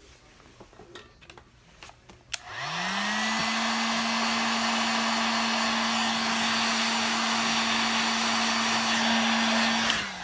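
Hand-held hot-air blower switched on about two seconds in: its motor spins up quickly to a steady hum under a loud rush of air, then it is switched off and winds down at the end.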